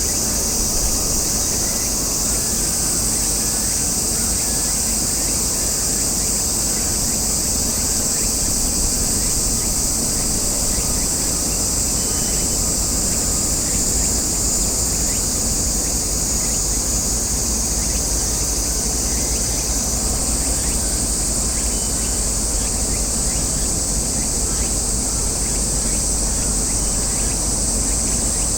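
Cicadas droning in a steady, high, unbroken chorus, with a low wind rumble on the microphone underneath.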